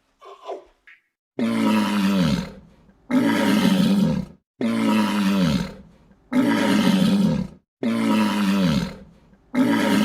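Big cat roaring: six calls, each about a second long and evenly spaced, each falling in pitch.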